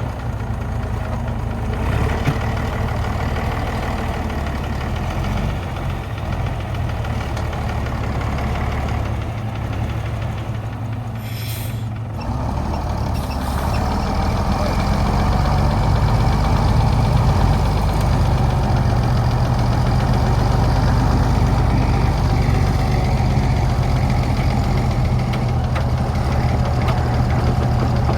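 Old truck's engine running steadily with a low-pitched note, getting louder from about twelve seconds in.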